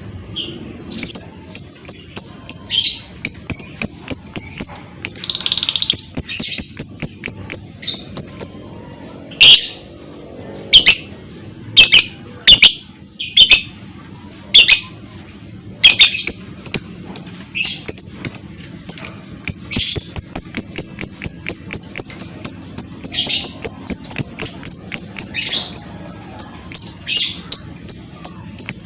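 Lovebird calling in runs of rapid, high-pitched chirps several times a second, broken by sharp, shrill squeaks.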